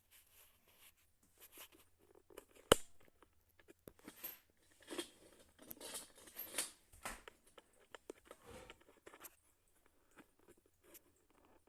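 Handling noises from fitting a bidet attachment to a toilet: a single sharp click or knock about three seconds in, then several seconds of rustling, scraping and light taps.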